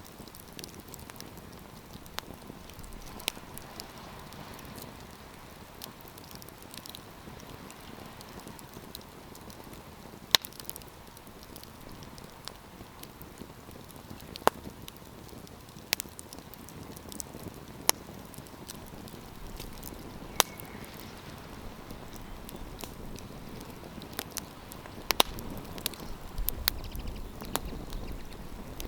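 Wood campfire crackling: a steady soft hiss of burning with irregular sharp pops and snaps, the loudest about ten, fourteen and twenty-five seconds in.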